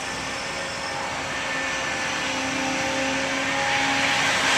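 Steady road and engine noise of a car heard from inside while it drives slowly, growing gradually louder toward the end.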